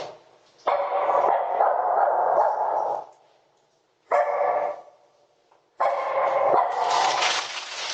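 A dog barking in loud stretches: one of about two seconds starting near the first second, a short one around four seconds in, and another starting near six seconds.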